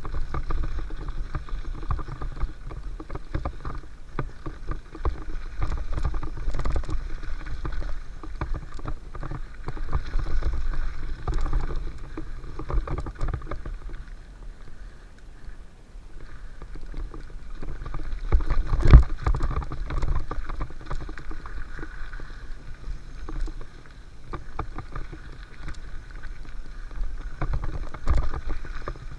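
Mountain bike rolling fast down a dirt flow trail: a steady tyre rumble with the chain and frame clattering over bumps, and one hard thump about two-thirds of the way through.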